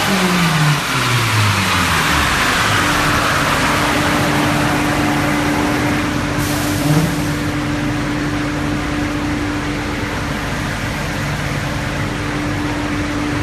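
A tuned 2007 Subaru STi's turbocharged flat-four engine, its revs falling steadily over the first two seconds. A loud, steady rushing noise with a steady hum follows and slowly dies away.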